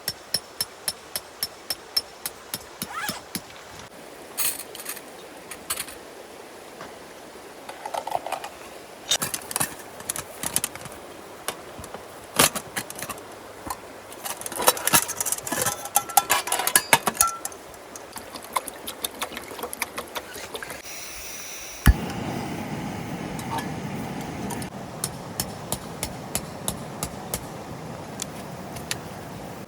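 Series of sharp clicks and knocks: a quick regular run of about two a second at first, then irregular clatter, with one sharp knock about 22 seconds in.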